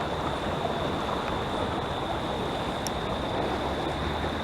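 Steady outdoor background noise, even and unbroken, with a faint high-pitched whine running through it.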